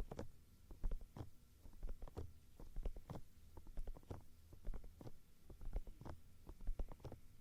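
ASMR ear-cleaning tools working right at the microphone: an irregular run of short scratches and taps, several a second, each with a dull low thump.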